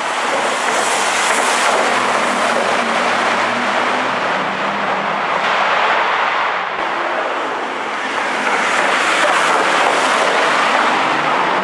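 Bugatti Veyron's quad-turbo W16 engine under hard acceleration as the car drives past. Partway through the sound changes to inside a tunnel, where it echoes; it swells again as a Veyron passes close by near the end.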